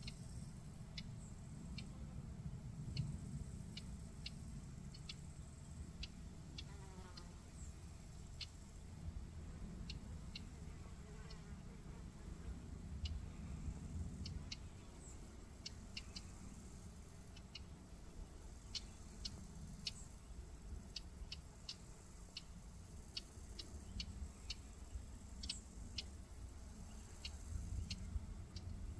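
Common whitethroat giving short, sharp ticking calls, repeated dozens of times at irregular intervals, sometimes a few in quick succession.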